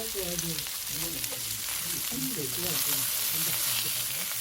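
Pork belly sizzling steadily on a grill over an oak-wood fire, its fat spitting and hissing as it cooks.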